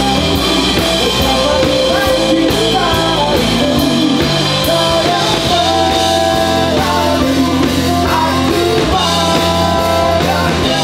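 Pop-rock band music: a sung vocal line over drums and guitar, playing steadily.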